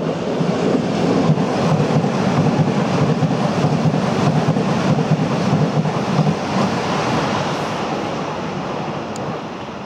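A train passing at speed: a loud rushing rumble that starts suddenly and fades away over the last few seconds.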